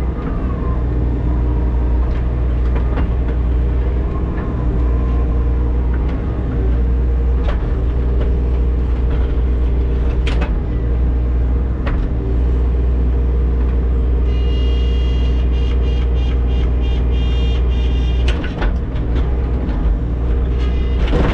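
Diesel engine of a mini excavator running steadily under load while digging through frozen ground, with a few sharp knocks and clanks of the bucket. About two-thirds of the way in, a high whine sounds for about four seconds.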